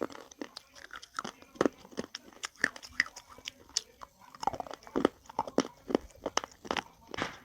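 Crunchy food being bitten and chewed close to the microphone: irregular sharp crackling crunches, several a second.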